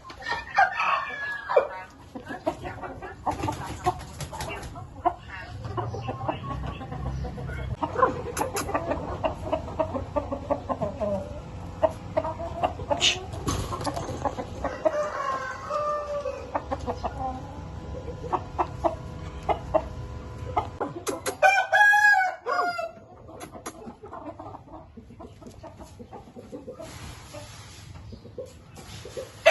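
Domestic chickens clucking and calling. A rooster crows once, about three-quarters of the way through.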